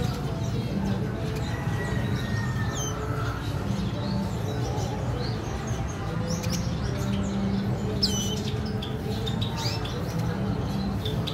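Cage birds chirping: scattered short, sharp, falling chirps, several together about eight seconds in, over a steady low hum.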